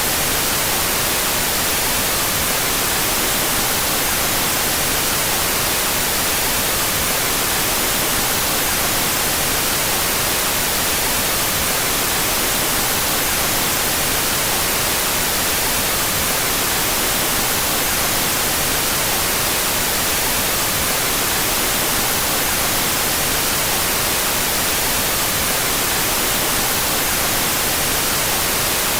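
Steady white noise: an even, unchanging hiss, brightest in the treble, with no rhythm or events. This is the out-of-phase white noise track, the two stereo channels carrying the noise in opposite polarity.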